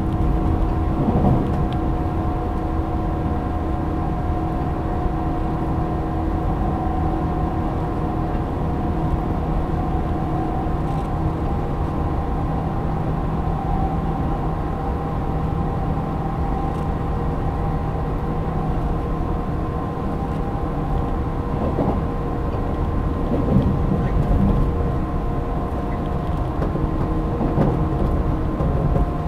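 Running noise inside a JR 185 series electric train at speed: a steady rumble of wheels on rail with constant humming tones, and a few knocks toward the end.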